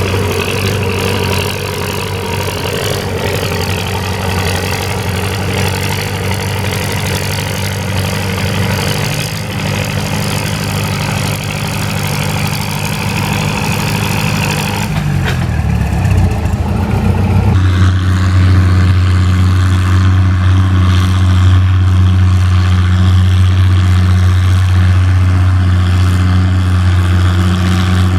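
Antique farm tractor engine running steadily. About halfway through, its pitch drops and it settles into a louder, lower steady drone.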